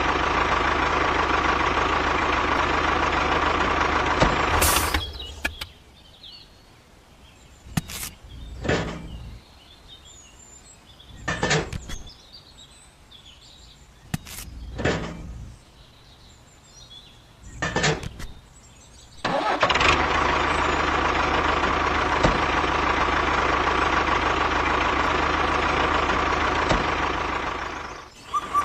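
A small motor or engine runs steadily, then cuts out about five seconds in. During a quieter stretch of roughly fifteen seconds there are a few short knocks and clicks. It starts up again and runs until just before the end.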